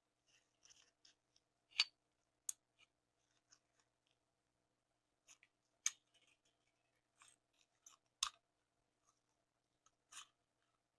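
Sparse sharp clicks and light knocks of small hard parts being handled. Four louder clicks come a few seconds apart, among fainter ticks.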